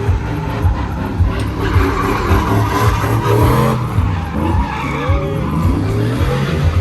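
Truck doing a burnout: the engine revs up and down while the rear tyres spin and skid on the pavement, loud and continuous.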